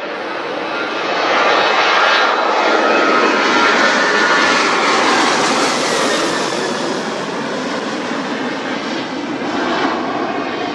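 Airliner passing close by, its engine noise swelling to a peak a couple of seconds in, with a high whine that falls in pitch as it goes by, then slowly fading.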